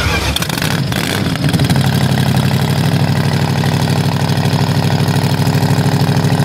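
A vehicle engine running steadily with a fast, even firing beat.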